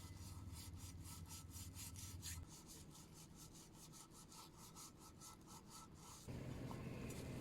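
Quick rhythmic scraping strokes on wood, about four or five a second, that stop about six seconds in.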